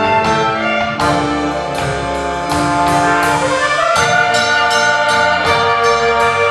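Symphony orchestra playing, with brass to the fore over a steady beat; about three seconds in, a rising run of notes climbs to a new held chord.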